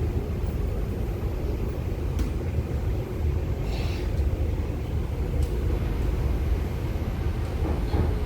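MTR Tuen Ma line IKK-Train running between stations: a steady low rumble of the moving train, with a few faint ticks and a brief hiss about four seconds in.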